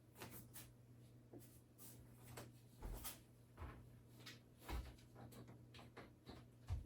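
Faint light clicks and knocks of things being handled and put away in kitchen cabinets, with a few soft thumps, over a low steady hum.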